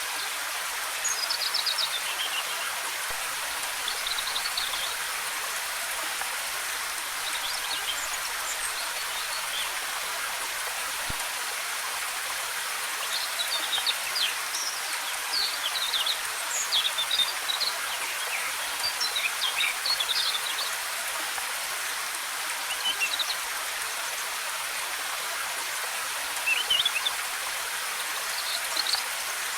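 Waterfall cascading in a steady rush, with forest birds chirping and singing short phrases over it, most busily around the middle.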